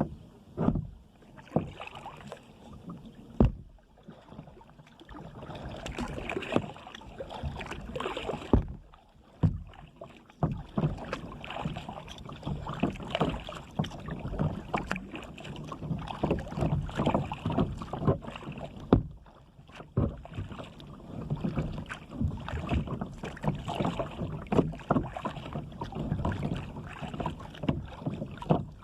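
Kayak paddle strokes dipping into and splashing water in an irregular rhythm, with occasional sharp knocks.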